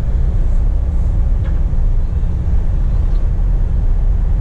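Scania P420 truck running at a steady speed, its engine and road noise a constant low drone heard inside the cab.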